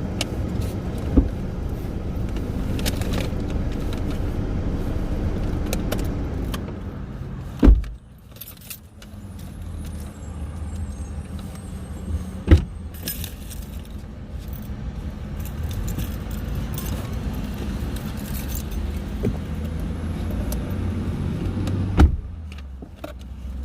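Steady low rumble inside a parked car, with rattling and handling noises and three sharp knocks, about 8, 12 and 22 seconds in.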